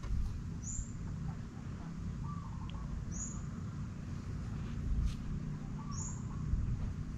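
A bird calling repeatedly: a short high chirp about every three seconds, and a lower wavering call twice, over a steady low rumble.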